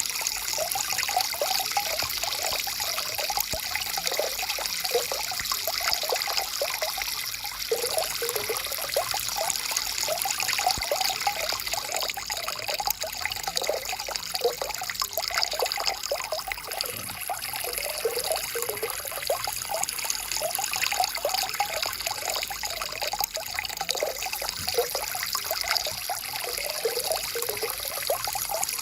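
Stream water flowing and trickling over rocks, a steady babble with many small gurgles and splashes.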